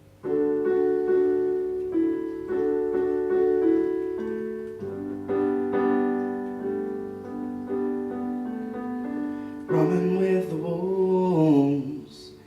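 Solo piano playing a song's intro in steady repeated chords; about ten seconds in, a man's singing voice comes in over it.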